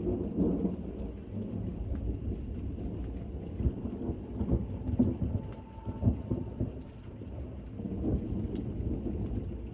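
Thunder rumbling over steady rain. The rumble swells at the start and rolls on, with louder cracks around the middle and another swell near the end.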